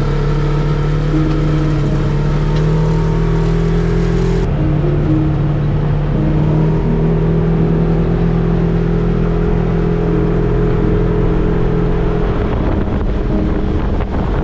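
Off-road vehicle engine running hard at a fairly steady speed, with abrupt shifts in its note at a couple of edit cuts.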